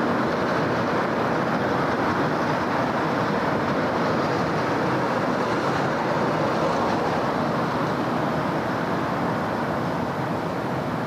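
Dense city road traffic: a continuous rush of tyres and engines from vehicles passing on busy streets, swelling a little around the middle as a vehicle goes by.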